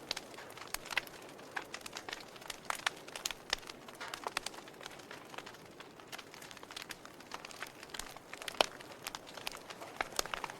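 Logs burning in a fireplace, crackling with irregular sharp pops over a soft steady hiss, one pop louder than the rest about eight seconds in.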